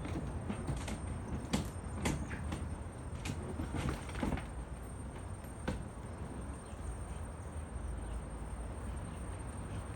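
Scattered clicks and rustles of handling, branches and a wooden hive box being worked, over a steady low rumble. The clicks thin out after about six seconds.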